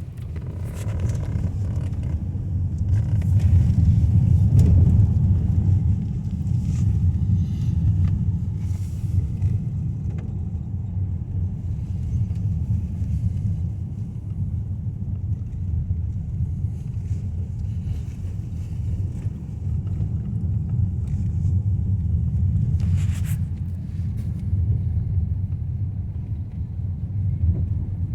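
Car driving on the road, heard from inside the cabin: a steady low rumble of tyre and engine noise, swelling for a few seconds near the start.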